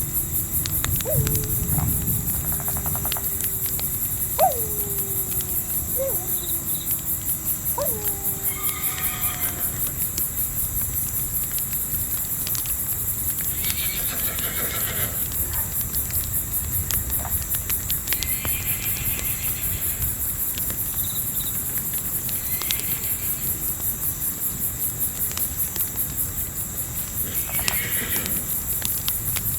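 Night ambience of insects chirring in a fast, even pulse over the crackle of a campfire, with a horse snorting now and then. In the first nine seconds a few long calls fall slowly in pitch.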